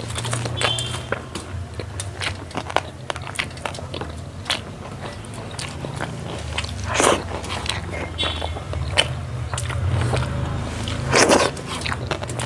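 Close-miked eating: a person biting and chewing food, with irregular wet smacks and crunchy clicks throughout and a few louder bites.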